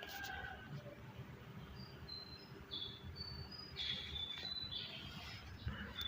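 Small birds chirping: a run of short, high notes that starts about two seconds in and grows busier toward the end, over a low steady background rumble.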